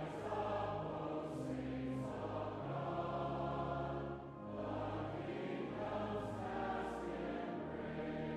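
Assembly of voices singing a hymn over sustained low accompaniment, in held phrases with a short break between phrases about four seconds in.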